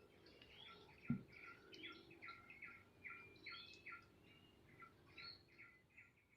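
Birds chirping faintly: a long run of short, quick downward-sweeping calls, two or three a second. A single dull thump about a second in.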